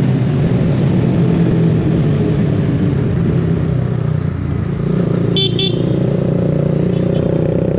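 Motorcycle engine running steadily, with two short horn toots about five and a half seconds in.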